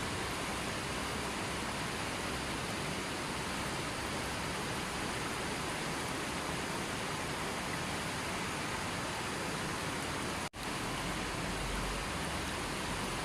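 Steady hiss of falling rain, even and unbroken, that cuts out for an instant about ten seconds in before carrying on.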